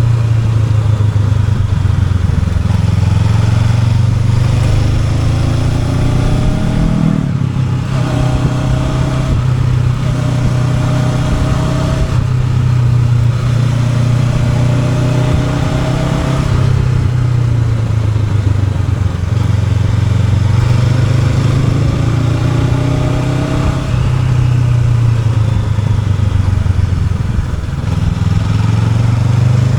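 Honda NX500's parallel-twin engine pulling a moving motorcycle, its revs climbing steadily over a few seconds and dropping back several times, as on shifts and throttle changes through bends.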